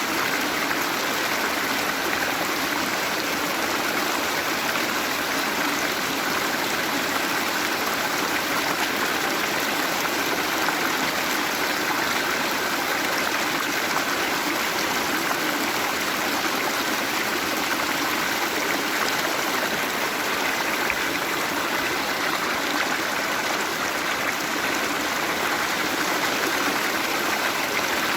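Waterfall: water falling and running in a steady, unbroken rush.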